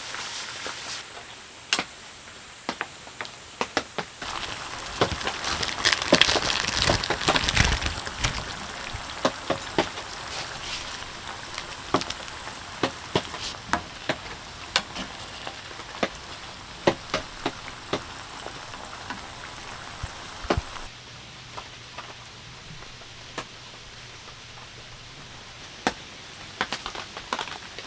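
Gambas sizzling in oil in a pan, with utensils clicking and tapping against it, over steady rain. The sizzle is loudest about four to eight seconds in.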